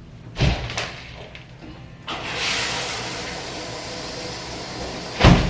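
A couple of knocks, then a shower is turned on about two seconds in: a steady hiss of spraying water, with a loud thump near the end.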